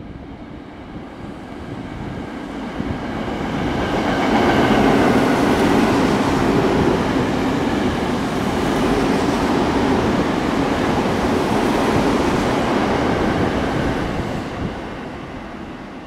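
A Tōyō Rapid Railway 2000 series electric train passing through a station platform without stopping. The noise of wheels on rail builds over about four seconds, runs loud and steady for about ten seconds as the cars go by, then fades as it pulls away.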